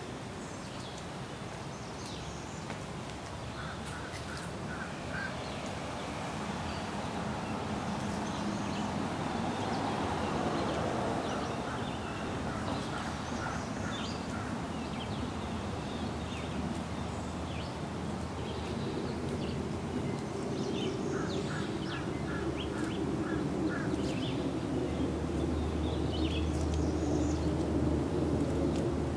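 Wild birds calling: a few runs of short repeated notes and scattered higher chirps over a steady background rumble that grows louder toward the end.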